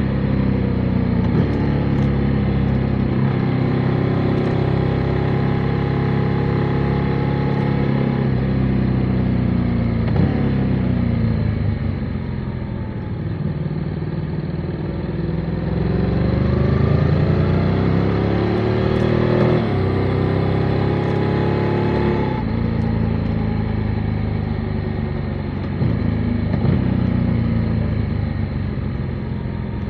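Motorcycle engine running under way, its pitch dropping around ten seconds in, then climbing steadily and stepping down with gear changes a few times in the second half.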